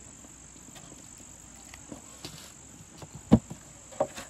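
Crickets trilling steadily in the night, with a few short knocks of gear being handled, the loudest about three seconds in and another about a second later.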